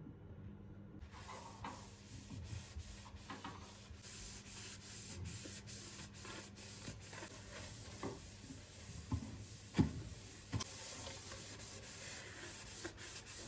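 Rubbing and scraping of hand food preparation, with scattered light knocks and clicks; a few firmer knocks come near the middle.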